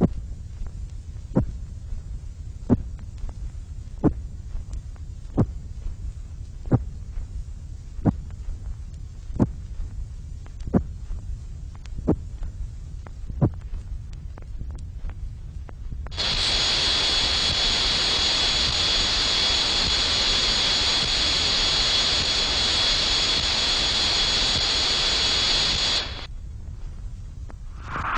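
Synthesizer-simulated tinnitus: a low rumbling hum with a faint tick about every 1.4 seconds. About 16 seconds in, a loud high hiss with a steady high whistling tone through it starts abruptly, then cuts off suddenly about ten seconds later.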